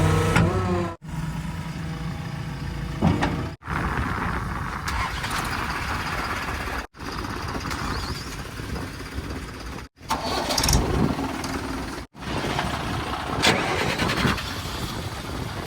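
Heavy machinery engines running, split into several short segments by abrupt cuts every few seconds.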